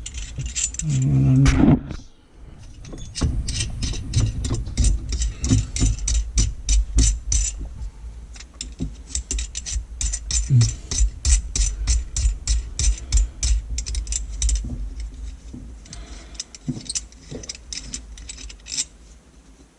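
Metal faucet parts clinking and clicking as they are handled, in quick runs of small knocks.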